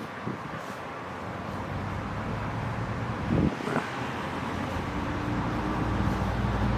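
A car engine running with a steady low hum that grows gradually louder, as a car comes nearer.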